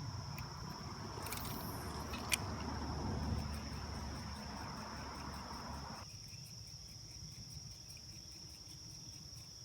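Steady, high-pitched insect chorus, with a low rumbling noise underneath that cuts off about six seconds in.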